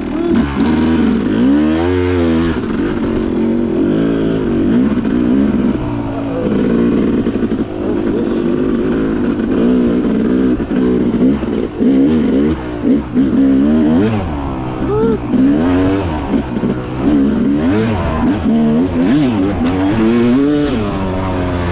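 Dirt bike engine under way, its revs rising and falling every second or two as the throttle is opened and closed, with a few brief drops in revs in the middle.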